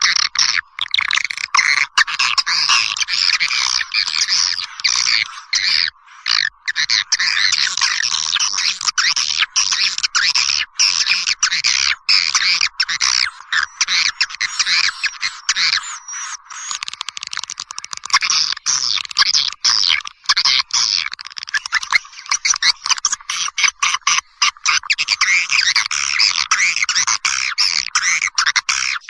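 Birds calling without pause: a dense, rapid chatter of squawks and trills, all high-pitched with no low end, broken only by brief gaps.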